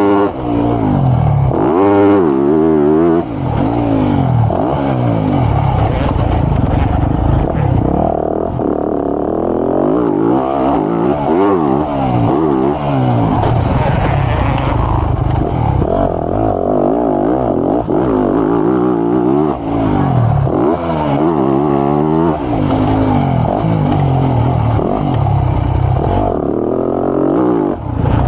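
Motocross bike engine revving hard through a lap, its pitch rising and falling over and over as the throttle opens and closes and the gears change.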